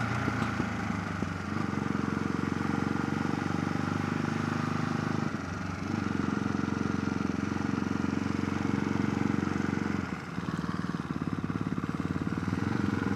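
Motorcycle engine running steadily as the bike is ridden, heard from the rider's helmet-mounted camera. The engine note drops briefly twice, about five and ten seconds in.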